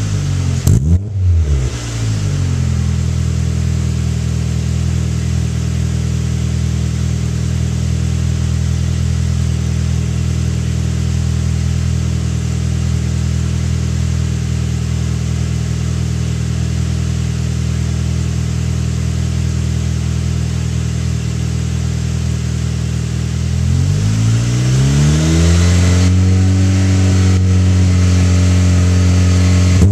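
Vehicle engine exhaust through a newly fitted exhaust. There is a quick blip of the throttle, then a long steady idle. About 24 seconds in the revs rise and are held higher for several seconds, dropping back at the end.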